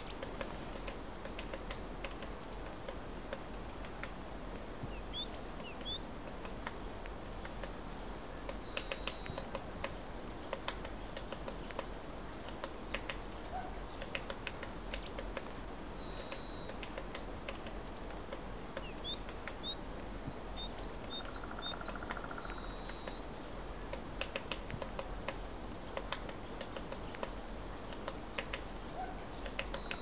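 Small birds calling: runs of quick, high chirps and a few short, steady whistled notes, repeating every few seconds. Scattered light taps sound over a steady background hiss.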